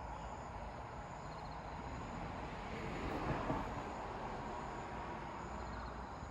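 A vehicle passing by: a rushing noise swells up, peaks about three seconds in and fades away.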